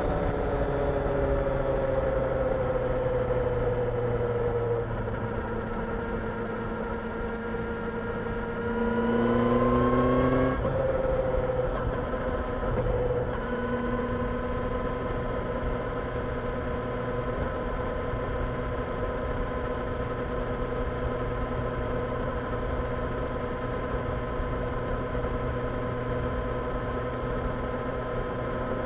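Kawasaki Ninja 1000SX inline-four engine under way. Engine speed eases off over the first few seconds and holds, then revs up and gets louder about nine seconds in. A gear change drops the pitch at once, and it settles into a steady cruise.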